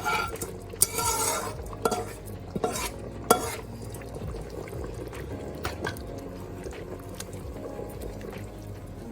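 A spoon scraping and knocking against a cooking pot as butter-sautéed basmati rice is transferred into a rice cooker, with several sharp clinks in the first few seconds, then only quieter scraping.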